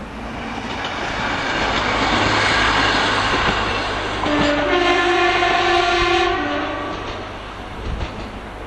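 A train passing at speed, its rush of wheels on rail building to a peak a couple of seconds in, then its two-tone horn sounding for about two and a half seconds, shifting between a lower and a higher note.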